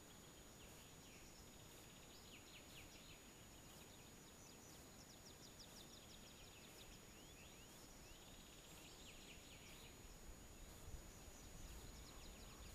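Faint songbirds singing at dawn in quick trills and chirps, over a thin steady high tone. A soft low rumble comes in near the end.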